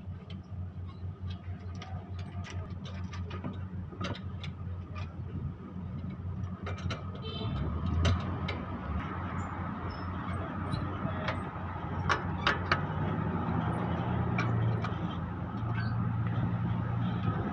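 A running motor hums steadily and low, growing a little louder about six seconds in, with scattered sharp clicks and knocks of metal over it.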